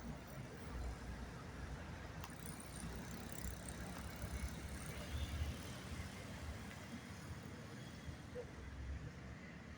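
Road traffic passing: a steady rumble of car engines and tyres that swells and fades as vehicles go by.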